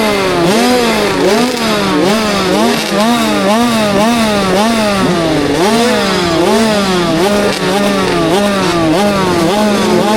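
Two-stroke 65cc engine of a KTM SX65 motocross bike, ridden on a track. The throttle is worked on and off over and over, so the engine's pitch climbs and falls about every three-quarters of a second.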